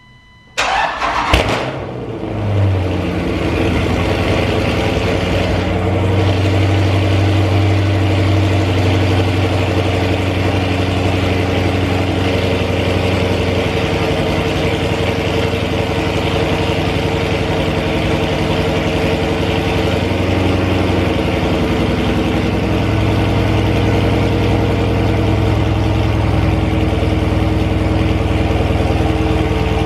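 Dodge Charger Scat Pack's 6.4-litre HEMI V8, with no catalytic converters and the mid muffler deleted, cranking and firing about half a second in. It flares up loudly for a moment, then settles into a steady cold-start idle.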